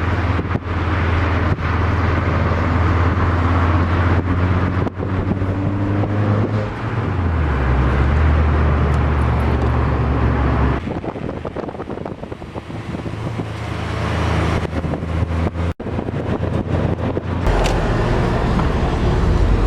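Mazda MX-5 Miata's four-cylinder engine and road noise heard from inside the car while driving. The engine note shifts in pitch about a third of the way in, falls away about halfway through as the car comes off the throttle, and picks up again near the end.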